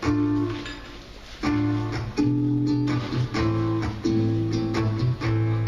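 Acoustic guitar playing a song's introduction: one chord struck and left to ring down, then steady strummed chords from about a second and a half in.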